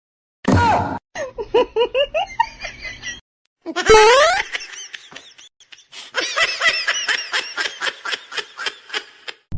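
High-pitched laughter in short pieces that start and stop abruptly, the longest a rapid run of about five laughs a second near the end.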